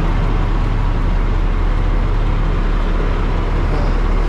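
Heavy diesel engine of a dump truck running steadily at close range, a deep even rumble.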